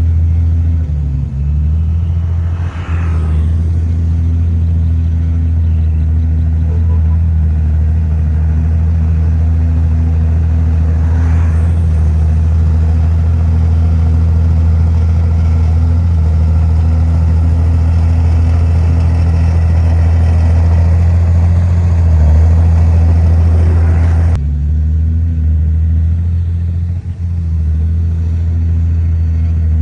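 Heavy diesel engine of earthmoving machinery running steadily and loudly, with a rougher working noise over it that stops suddenly about three-quarters of the way through.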